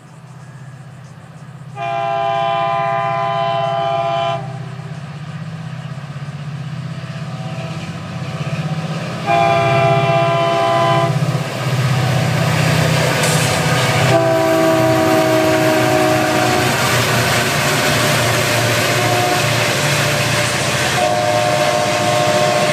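Diesel freight locomotive's air horn sounding four long blasts as the train approaches and passes, the third blast dropping in pitch as the engine goes by. Under it the locomotive engines drone steadily, and from about nine seconds in the loud rumble and clatter of the passing train's wheels on the rails takes over.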